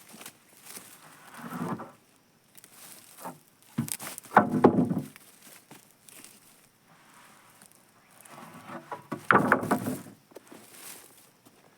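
Irregular handling knocks and rustling, with two louder clattering bursts about four and nine seconds in; no saw is running.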